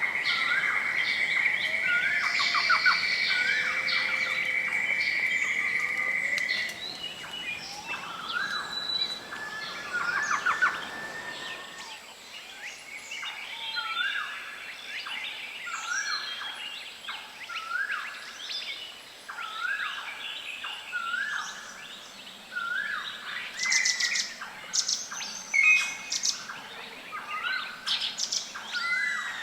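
Several wild birds calling and chirping. A steady high buzzing trill stops about six seconds in, and later one bird repeats a short whistled note about once a second among other chirps.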